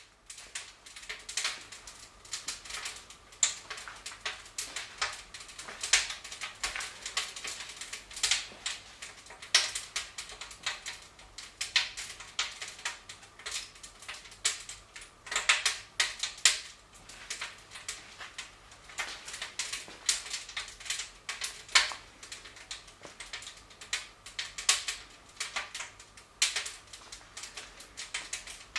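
Wood fire crackling in a fireplace: irregular sharp snaps and pops, several a second, some louder than others.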